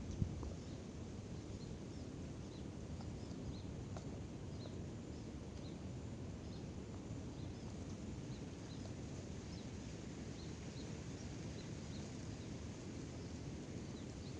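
Outdoor ambience with birds giving many short, high chirps scattered throughout, over a steady low rumbling background noise. A single sharp click comes right at the start.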